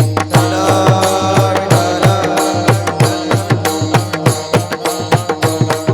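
Devotional kirtan accompaniment: a barrel drum beating deep strokes, small hand cymbals clashing on a fast even beat, and held reed-organ notes underneath.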